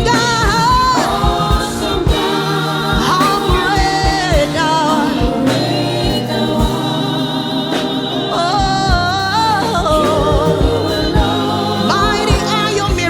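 Gospel worship song: sung vocals gliding between notes, with choir backing, over a band with sustained bass and a steady beat.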